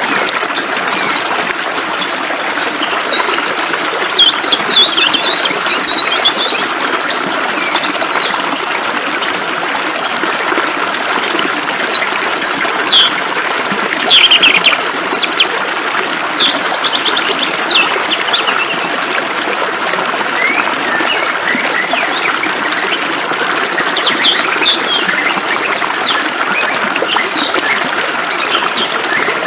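Several small birds chirping and singing in quick, varied phrases over a steady trickle of flowing water.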